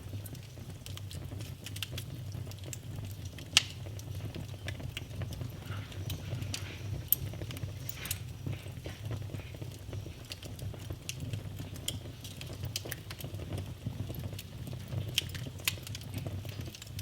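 Wood fire burning in a fireplace, crackling and popping irregularly over a steady low rumble of the flames, with a sharper pop about three and a half seconds in and another near seven seconds.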